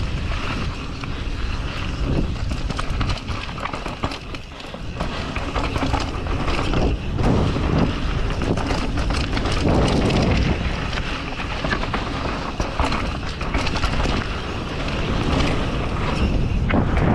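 Wind rushing over the microphone on a mountain bike running downhill, with the tyres on dirt and the bike rattling in quick clicks over bumps.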